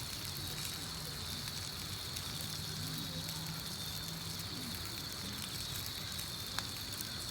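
Campfire of wood crackling over a steady hiss, with one sharp pop near the end.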